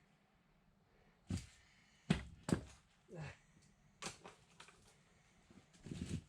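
Several separate metallic knocks and clunks of hand tools and brake parts being handled during assembly, the loudest two about two seconds in, half a second apart.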